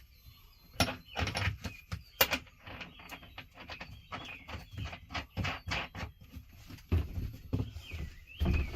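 Irregular knocks, clicks and light clatter of hand work with strap and bolt hardware inside a truck's sleeper cab, louder knocks about a second in, about two seconds in and near seven seconds.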